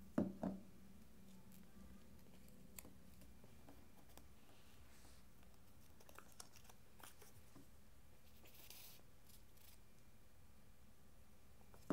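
Quiet handling of construction paper on a tabletop: two soft knocks just after the start, then scattered faint taps and a brief paper rustle about two-thirds of the way through.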